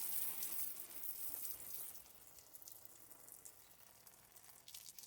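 Water from a garden hose spraying onto dry concrete mix, a steady hiss that is louder for the first couple of seconds and then softer.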